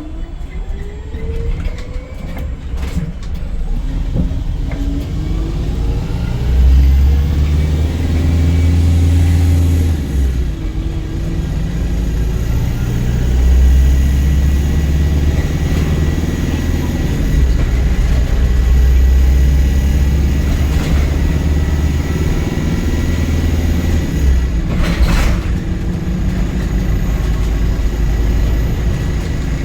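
Volvo B5LH hybrid double-decker bus heard from inside while under way. A whine rises in pitch in the first few seconds as it pulls away, then the diesel engine runs hard and loud under heavy acceleration for most of the stretch, easing briefly twice, over steady road noise.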